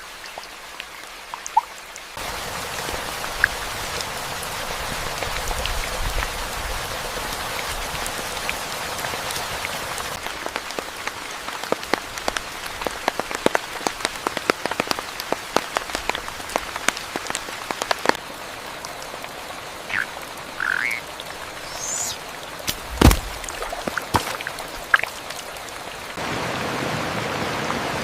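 Rain falling with many heavy drips, and frogs croaking in short calls. A single sharp knock comes about 23 seconds in, and the rain noise changes abruptly several times.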